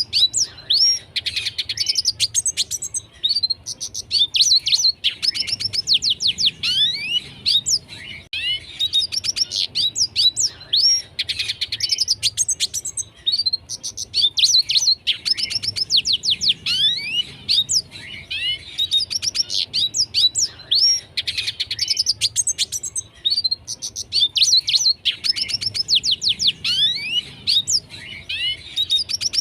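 Red siskin singing in a continuous run of fast twittering phrases: rapid falling chirps, trills and buzzy notes, each phrase lasting several seconds, with short pauses between.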